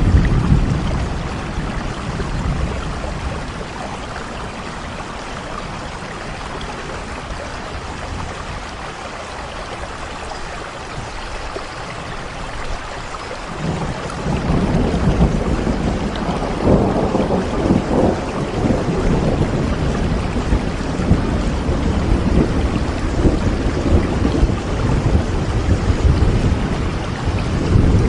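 Steady rain with a low rolling rumble of thunder that swells about halfway through and stays loud to the end.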